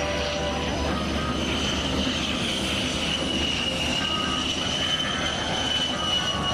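Aircraft engine noise from a plane flying over, with a high whine that sinks slowly in pitch and cuts off suddenly near the end.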